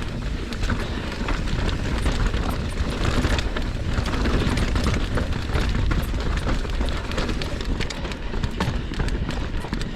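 Mountain bike riding down a dirt trail: tyres rolling over dirt and stones, with steady wind rush on the microphone and a scatter of small clicks and rattles from the bike.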